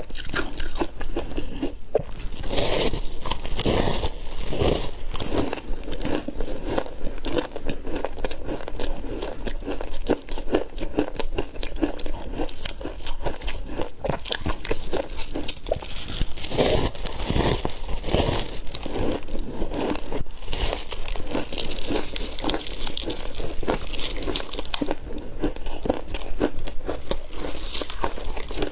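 Close-miked biting and chewing of ice: rapid, continuous crunching and crackling as pieces of frozen ice are bitten off and crushed between the teeth.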